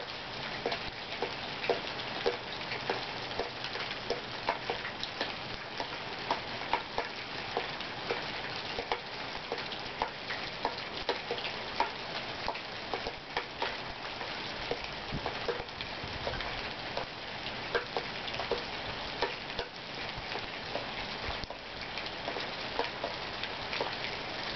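Steady rain falling, with frequent sharp drops and drips hitting nearby surfaces.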